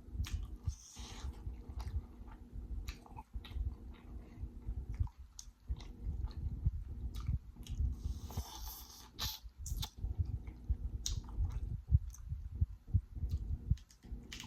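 Close-miked chewing of a seafood boil, with wet smacks and lip clicks throughout and a louder wet sound about eight seconds in.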